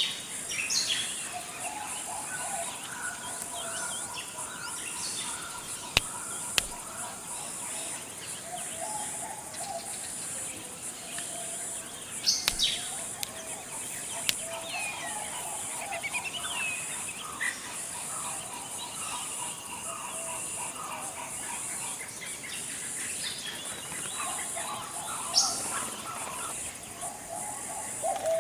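Forest ambience: birds calling and chirping on and off over a steady high insect drone, with a few short sharp chirps standing out.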